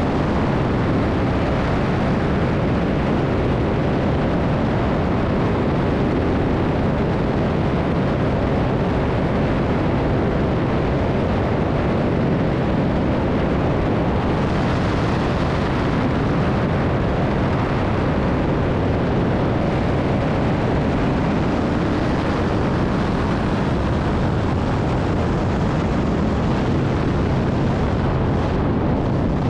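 Steady loud rushing of wind and machine noise on a camera in flight, with no distinct engine note.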